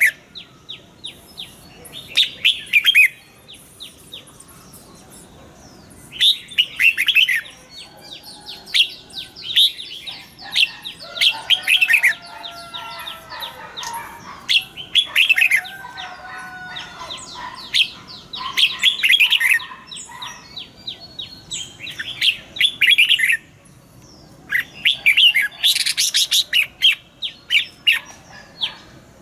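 Red-whiskered bulbul singing: bursts of quick, falling chattering notes every few seconds, with a few lower whistled notes in the middle.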